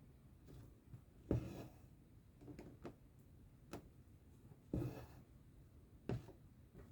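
Needle punching through cross-stitch fabric and thread being drawn through it: a run of soft taps, roughly one a second, some followed by a short swish.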